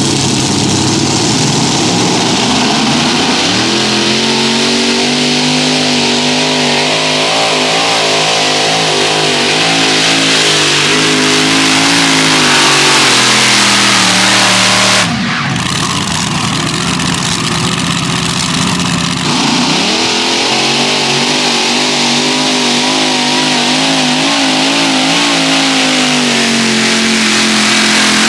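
Multi-engine modified pulling tractor with Chevrolet engines running hard under load during a pull, its pitch rising and falling. There is an abrupt change about halfway through, after which the engines carry on.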